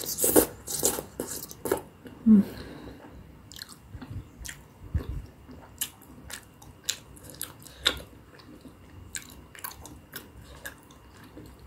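Close-miked chewing of sauce-coated tteokbokki rice cakes, with wet mouth smacks and clicks. They are loudest and come thickest in the first two seconds, then turn fainter and more scattered.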